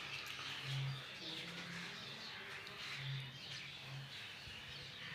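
Birds calling: a low cooing that comes a few times, the clearest about a second in and again around three seconds, over faint high chirping.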